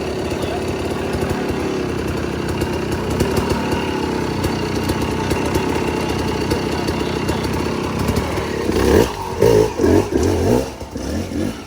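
Dirt bike engine running steadily, then a few louder, uneven surges near the end.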